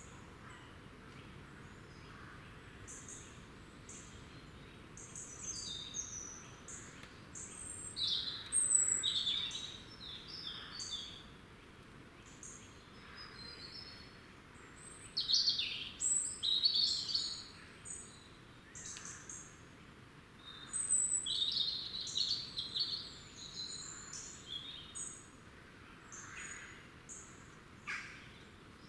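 Small woodland songbirds calling and singing, with many short, high chirps and brief phrases overlapping in bursts, busiest in three spells, over a faint steady hiss.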